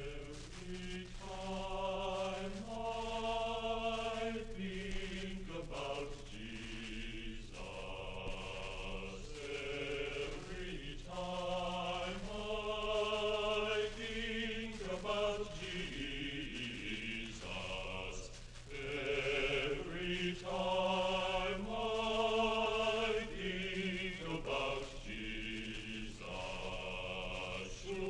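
Choir singing slow, long-held notes that change pitch every second or two.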